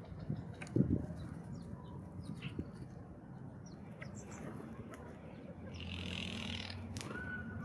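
Outdoor ambience of small ground-feeding birds: scattered short bird calls and chirps over a faint steady low hum. There are two soft knocks a little under a second in, and a short whistled note near the end.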